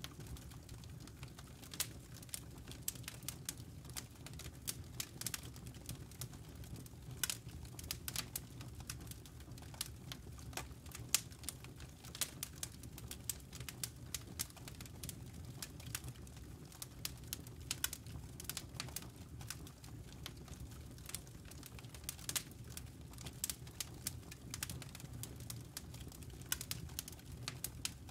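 Wood fire burning in a fireplace: a dense, irregular stream of sharp crackles and small pops from the burning logs over a low steady rumble.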